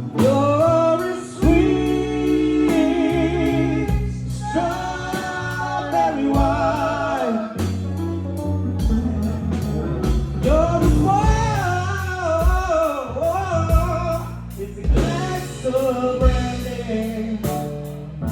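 Live band playing a slow country-soul ballad: a singer holds long, wavering notes without clear words over guitar, bass and a steady drum beat.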